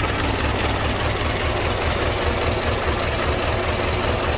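1926 Ford Model T's inline four-cylinder engine idling steadily, with an even low pulsing beat; it runs smoothly.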